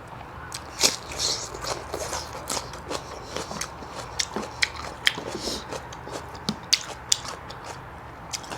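A person eating: biting and chewing food, with many short, sharp clicks and crunches scattered throughout.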